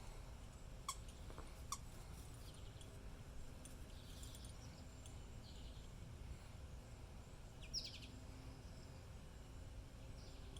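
Faint sounds of a puppy at play: a few sharp clicks and taps and some short high chirps over a low steady background rumble.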